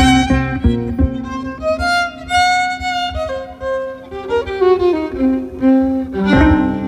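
Violin playing a bowed melody of held and sliding notes in an instrumental break of a live song, over short low notes underneath; the playing grows louder near the end.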